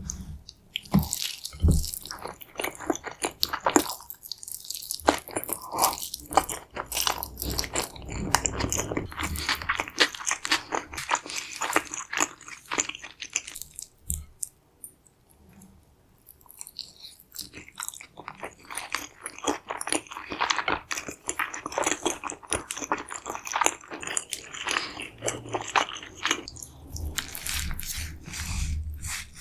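Close-miked biting and chewing of a crispy fried carnitas chimichanga, the shell crunching and crackling, with a pause of a few seconds about halfway through before the chewing resumes.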